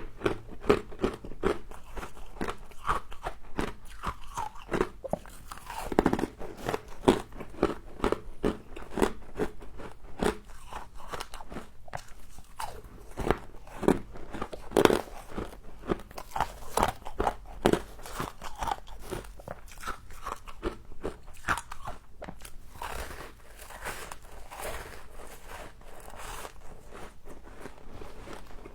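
Close-up crunching and chewing of frost in the mouth: a dense run of crisp, crackling crunches, many a second, with louder bites now and then.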